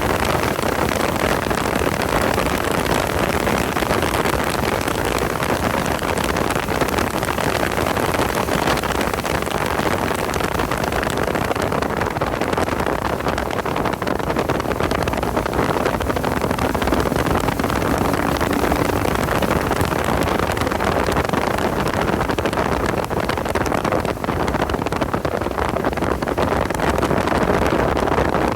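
Porsche 986 Boxster's flat-six engine heard on board while driven at speed, buried in heavy, steady wind and road noise.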